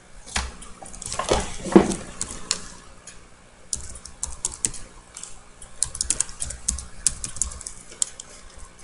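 Typing on a computer keyboard: quick, irregular key clicks in two runs with a short pause between them.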